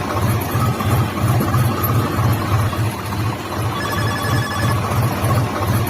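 A phone ringtone beeping from about four seconds in, over a small motor running with a steady pulsing throb.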